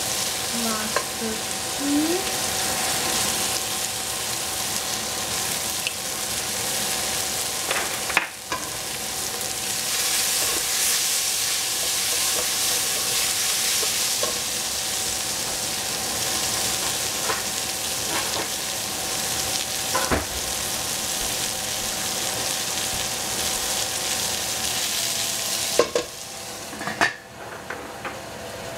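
Sliced red onions and spices sizzling as they fry in a stainless steel pot, stirred with a wooden spoon that knocks against the pot now and then. Near the end the sizzle drops and there is a clank as a metal lid is set on the pot.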